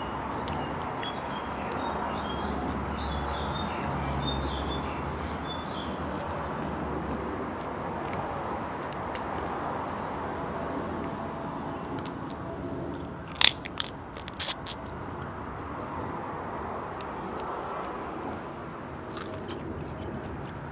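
A person chewing and biting food close to the microphone, with a few sharp crunches about two-thirds of the way through.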